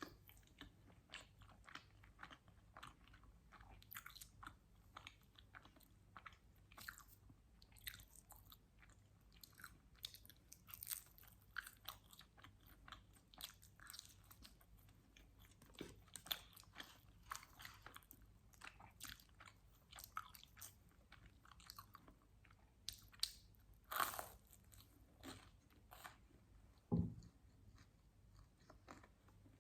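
Close-miked mouth sounds of someone biting and chewing pizza: a steady run of small wet crackles and crunches, with two louder ones near the end, the last with a low thump.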